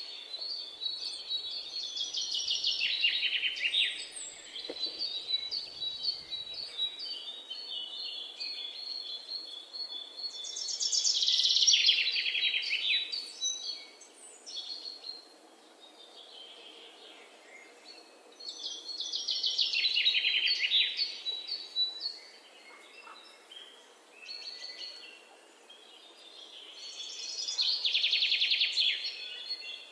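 Songbird singing: fast trilled song phrases a second or two long, repeated with gaps of several seconds between them, over a faint steady background hiss.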